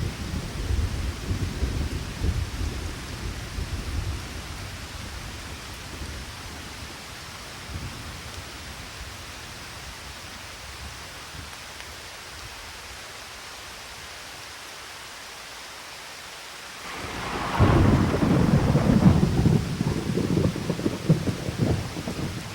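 Thunderstorm: steady rain with rolling thunder that dies away over the first few seconds, then a sudden loud thunderclap near the end that rumbles on.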